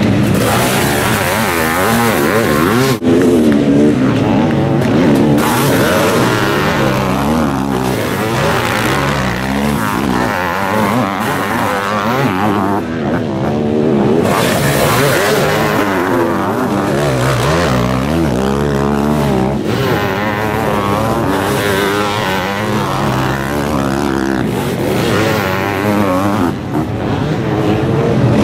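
Several motocross sidecar outfits' engines revving hard together, their pitch rising and falling as they race over the jumps, with a few sudden cuts in the sound.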